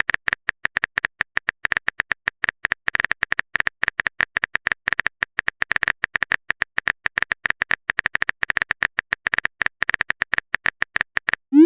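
Rapid, uneven run of short clicking blips with a steady high tone, about ten a second in clusters, as in a text-typing sound effect for on-screen dialogue. A short rising sweep comes right at the end.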